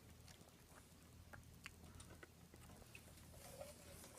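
Near silence: low room hum with a few faint clicks and soft mouth sounds of someone sipping from a plastic cup.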